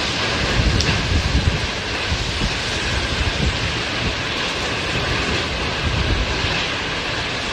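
Strong storm wind rushing over the microphone, a steady loud noise with a low rumble that swells in small gusts.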